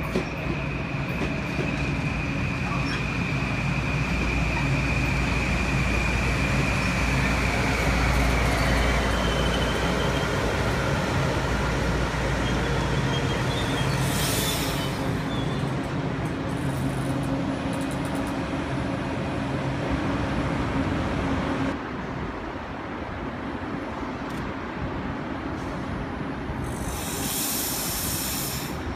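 Electric passenger train running at a station, a steady low rumble under a high whine that falls in pitch about a third of the way through. There are two brief hisses, about halfway and near the end.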